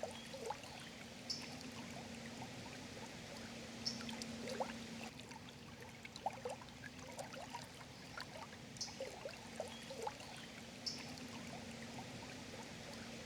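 Small forest stream trickling and gurgling faintly, with scattered little bubbling blips. A faint steady low hum runs underneath, and a few brief high chirps come at intervals.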